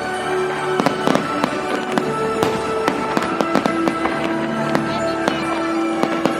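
Aerial fireworks bursting in a quick, irregular string of bangs and crackles. Music with long held notes plays underneath.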